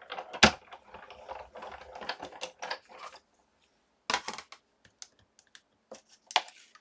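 Paper-crafting supplies handled on a desk: irregular light clicks and taps with paper rustling. A sharp click comes about half a second in, there is another cluster of clicks around four seconds, and one more near the end.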